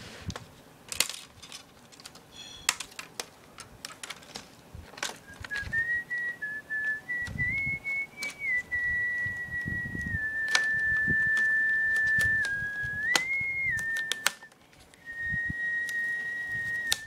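A person whistling long held notes that step between nearby pitches, starting about five seconds in with a short break near the end. Sharp plastic clicks and snaps and a few dull knocks come throughout as the laptop's plastic frame is pried off.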